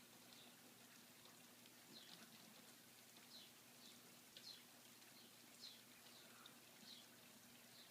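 Faint bird chirping: short, falling chirps about once a second over a soft, steady hiss of morning rain.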